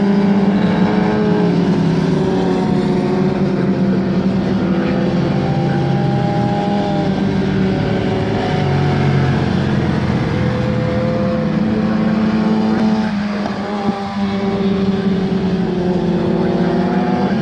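Several racing superbike engines running hard at high revs, their pitches overlapping and shifting up and down as the bikes accelerate and change gear.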